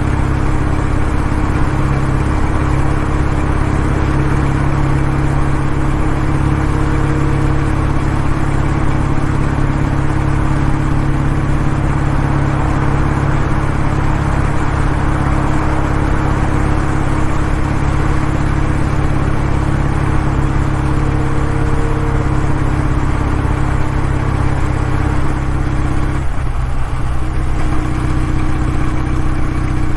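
Exhaust of a Kawasaki W650's air-cooled parallel-twin engine running steadily at an even pitch. The tone wavers briefly about 26 seconds in, then settles back.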